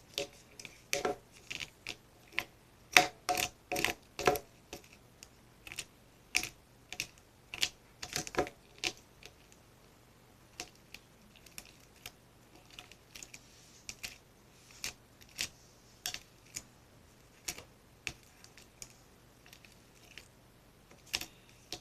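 Irregular clicking and tapping of glitter slime being stirred in its container, a few sharp clicks a second with pauses, as the glue, baking soda and contact solution mix start to form a sticky slime.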